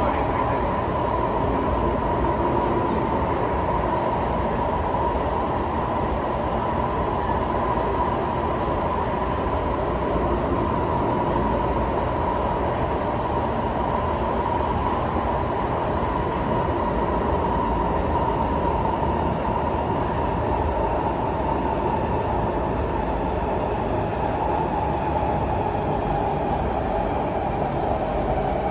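Singapore MRT train running at speed, heard from inside the carriage: a steady rumble with a constant whine that drops slightly in pitch near the end.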